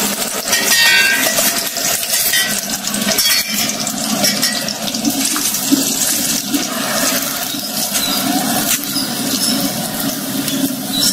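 Coarsely ground moong dal sizzling steadily as it frys in hot ghee in a steel kadhai, with a ladle scraping the pan now and then as it is stirred.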